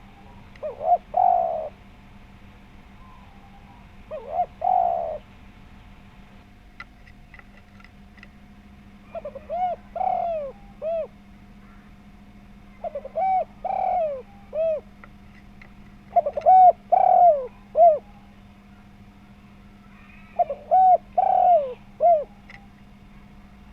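Spotted dove (tekukur) cooing in six phrases of several rounded coos each, a few seconds apart. Faint high chirps of small birds come between the phrases, over a steady faint hum.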